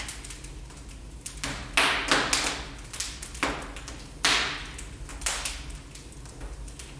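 Wood fire crackling in a fireplace: irregular sharp pops and snaps, the loudest about two and four seconds in, over a steady low rumble.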